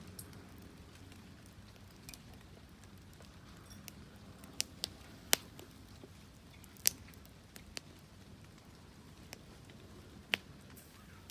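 Wood campfire crackling: a low steady hiss broken by sharp, irregular pops, about half a dozen of them scattered through the middle and latter part.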